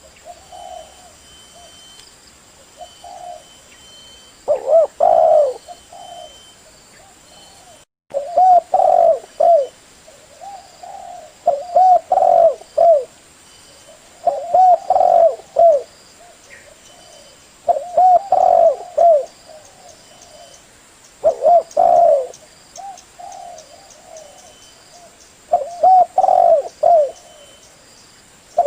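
Spotted dove (tekukur) cooing: a repeated phrase of low, rolling coos, one phrase every three to four seconds. This is the male's call, used as a lure to draw other tekukur. The sound cuts out briefly about eight seconds in.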